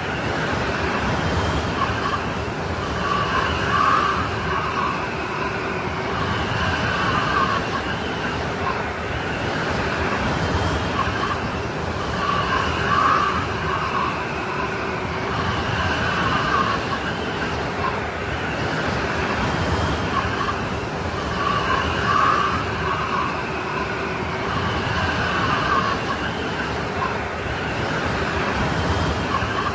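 Strong snowstorm wind blowing steadily, a wide rush of noise with wavering higher tones that swell and fade every few seconds.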